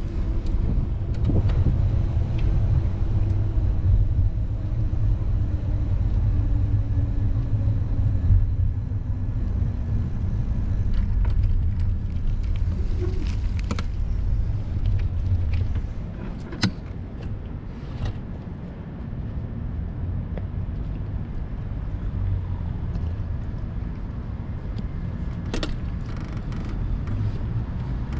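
City street traffic: a motor vehicle passes, its engine note falling slowly over the first ten seconds over a heavy low rumble. The rumble drops away about sixteen seconds in, leaving quieter steady street noise, with two sharp clicks.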